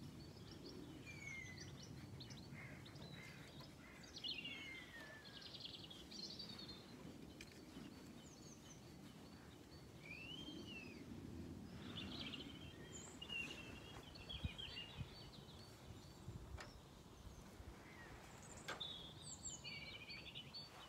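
Faint songbirds singing: a run of short chirps and gliding whistles, with one bird after another, over low background noise.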